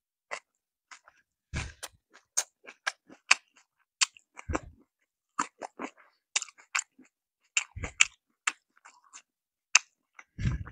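Close-miked chewing of a mouthful of fried chicken and rice: a run of short crisp crackles and wet mouth clicks at irregular intervals, with a few duller thumps.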